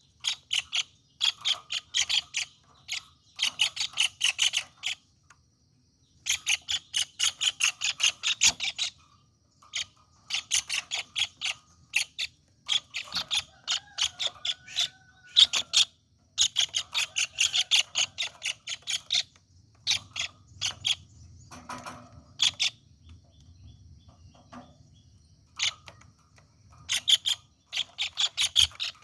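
A bird calling in runs of rapid, sharp chirps, many notes a second, each run lasting one to three seconds with short pauses between, over a faint steady high tone.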